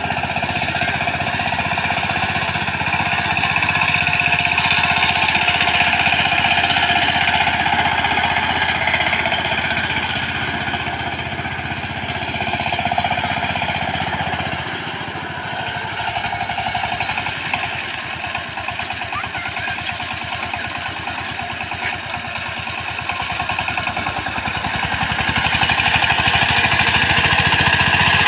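Walk-behind power tiller's single-cylinder diesel engine running with a rapid, even chugging. It runs quieter for a stretch past the middle, then louder again near the end.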